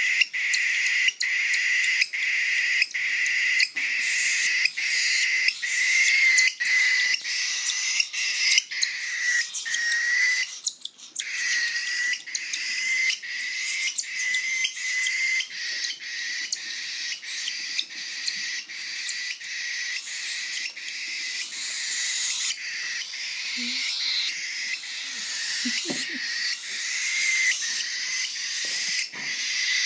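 Baby birds begging during syringe feeding: a loud, high-pitched calling in rapid repeated notes, about two or three a second, that keeps on with only a brief break about eleven seconds in.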